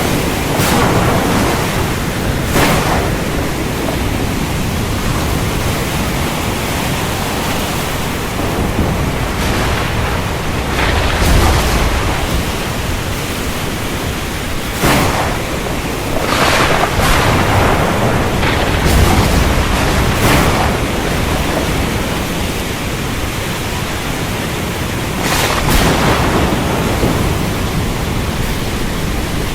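Thunderstorm: a steady, dense rush of heavy rain, broken every few seconds by short sharp cracks, with deep thunder rumbling about eleven seconds in and again near nineteen seconds.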